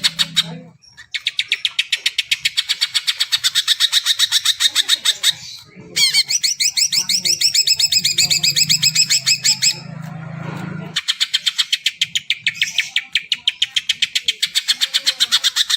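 Greater green leafbird (cucak ijo) singing in long runs of fast repeated high chirps, about nine a second, with a stretch of quick sliding whistled notes in the middle. A low hum sits under that middle stretch.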